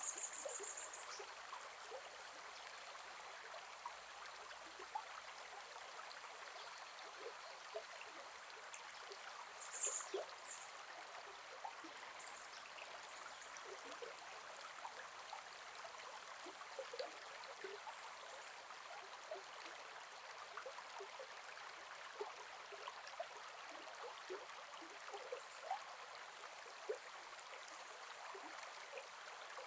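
Gentle forest river flowing steadily, with small gurgles and splashes scattered through it. Two brief high-pitched chirps stand out, one right at the start and one about ten seconds in.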